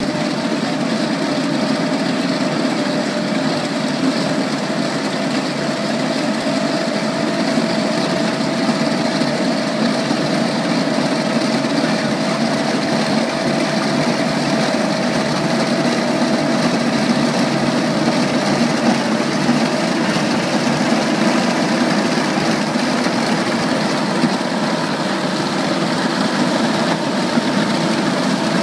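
Schibeci RM450 milling attachment on a Terex PT-100G compact track loader cutting asphalt: a constant grinding noise from the milling drum with the loader's engine under load, and a steady whine running through it.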